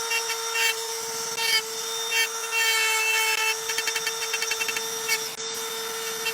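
A machine running with a steady hum and rapid, rhythmic rasping that comes and goes in short runs, like a power tool working.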